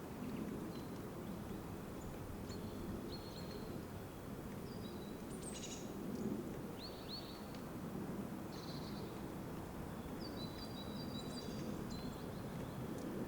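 Small birds calling now and then over a steady low outdoor background noise: short high chirps and a few brief trills, with a run of trilling calls in the last few seconds.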